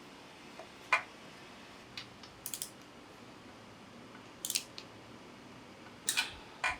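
Scattered short metallic clicks and clinks of tools and engine parts being handled, about six in all, some in quick pairs.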